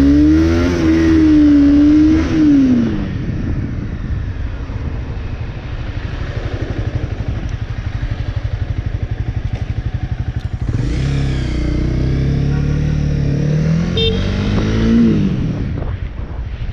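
Motorcycle engine pulling away, its pitch rising and then falling over the first three seconds, running low and steady for several seconds, then accelerating again about eleven seconds in and easing off near fifteen seconds.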